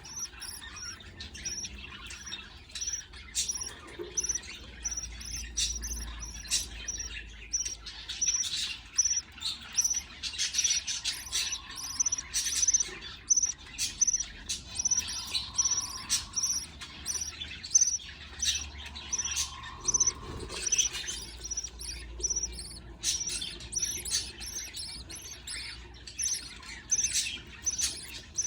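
Budgerigar chicks giving high-pitched begging chirps, short peeps repeated several times a second, as they are fed by an adult budgie.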